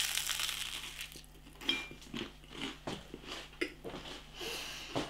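A bite into toast thickly spread with crunchy peanut butter: a crisp crunch at the start, then a mouthful being chewed, with soft irregular clicks and smacking a few times a second.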